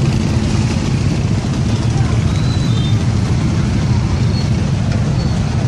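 Steady low rumble of a moving road vehicle, engine and road noise without a break.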